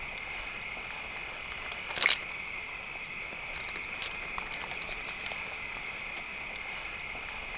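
Outdoor ambience: a steady high-pitched drone, with one sharp rustle or snap about two seconds in and a fainter tick around four seconds.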